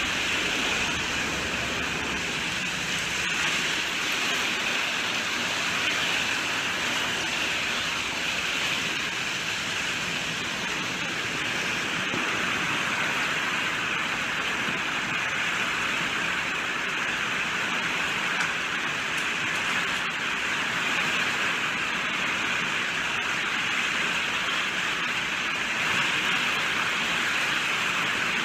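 Steady rainfall, an even hiss of rain falling without a break, with no single drops standing out.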